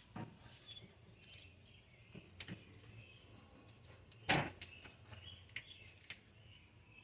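A few sharp clicks and knocks from hands working the old wiring harness as its wrap is pulled off, the loudest about four seconds in. Birds chirp faintly in the background.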